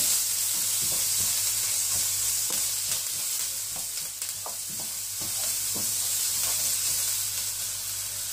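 Sliced onions, green chillies, spring onions and chopped garlic sizzling in hot oil in a nonstick wok, stirred with a wooden spatula that scrapes and knocks against the pan now and then.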